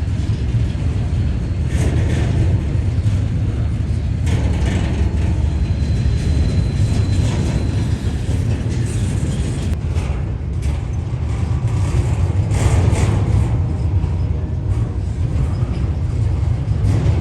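CSX intermodal freight train rolling past: a steady heavy rumble with repeated wheel clicks and clatter over the rail joints.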